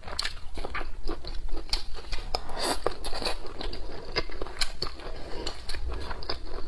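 Close-miked chewing of a mouthful of stir-fried cured pork and dried long beans: an irregular run of small wet clicks and smacks, several a second.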